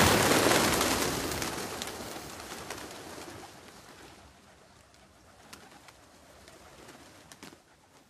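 Birds calling over a rushing noise that comes in abruptly loud and fades away over several seconds, with a few sharp clicks near the end.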